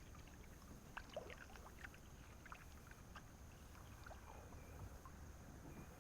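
Faint water sounds of a kayak being paddled: scattered light splashes and drips from the paddle blades, with a few small knocks.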